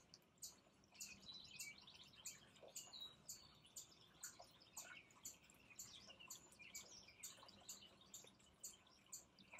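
Faint bird chirps: short, high, quick notes repeating about two to three times a second, over a soft trickle of fountain water.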